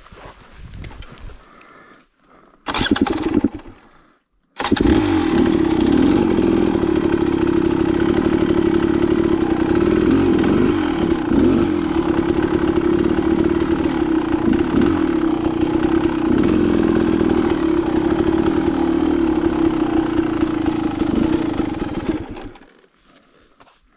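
Dirt bike engine: a brief burst that stops, then the engine starts and runs steadily and loudly for about eighteen seconds before shutting off near the end.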